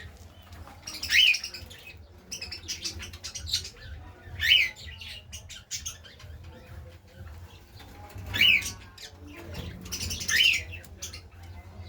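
Caged birds in a loft: one bird gives four loud, short, shrill calls a few seconds apart, each falling in pitch. Between the calls come scattered clicks, scratching and wing flutters.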